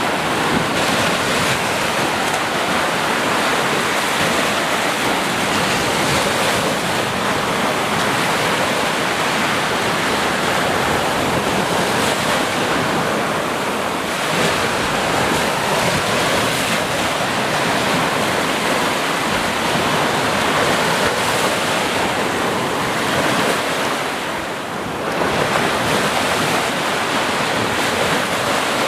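Sea waves breaking and washing on the shore in a steady rushing surf, briefly easing about three-quarters of the way through.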